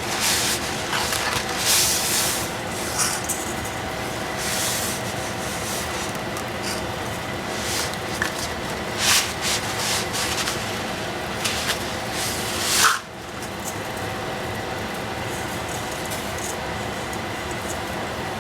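A cooking utensil scraping and stirring in a pan, in several short strokes through the first part, the sharpest about thirteen seconds in, over a steady kitchen hum.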